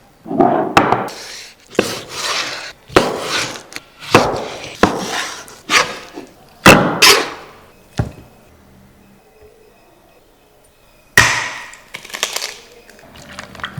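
A series of sharp knocks on wood, each with a short crackly tail, about one a second, then a pause of a few seconds and one more knock with smaller knocks after it near the end.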